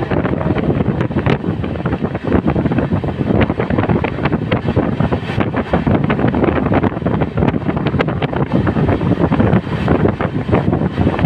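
Express train running at speed, heard from aboard an LHB coach: a loud, steady rush of running noise with wind buffeting the microphone, broken by frequent irregular clicks and knocks.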